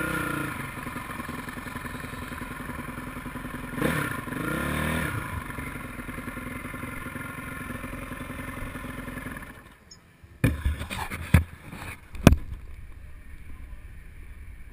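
Motocross dirt bike engines running and revving, pitch rising and falling, with a louder rev about four seconds in. The engine noise drops away near ten seconds, followed by several sharp knocks.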